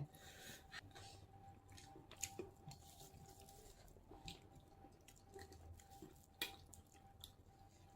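Near silence, with faint scattered clicks and soft mouth sounds of someone eating, over a faint steady tone.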